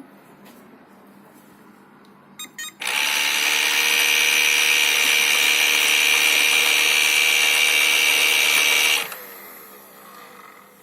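Ilife V7s Pro robot vacuum's main brush motor starting after two short blips and running with a loud, steady, high-pitched screech for about six seconds, then winding down with a falling pitch. The owner puts the screech down to the main brush motor.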